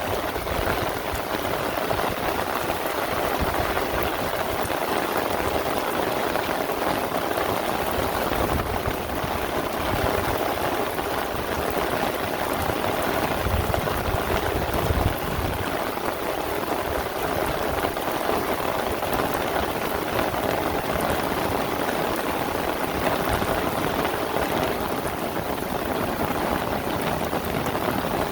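Heavy rain falling steadily, a dense, even hiss of drops that stays unbroken throughout.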